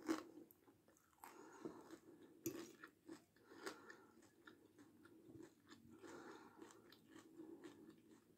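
Faint, close-miked chewing of crispy batata palha, the very thin fried potato sticks, with soft irregular crunching.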